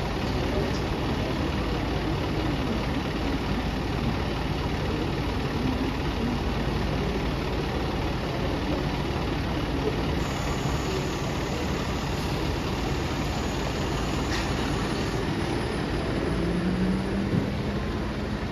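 City bus engine idling steadily.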